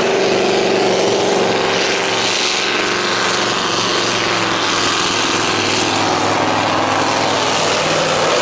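Scania pulling truck's diesel engine running loud and steady under load.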